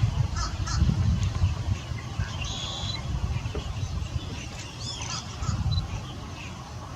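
Birds giving short, high calls, one buzzy call about two and a half seconds in and a curving call about five seconds in, over a steady rumble of wind on the microphone.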